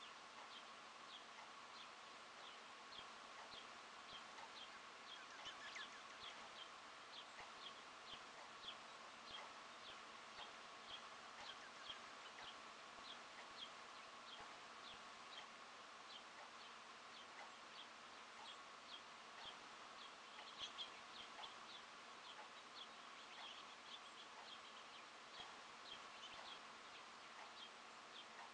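Small songbirds chirping faintly: short, high chirps repeated about twice a second, over a steady faint hiss.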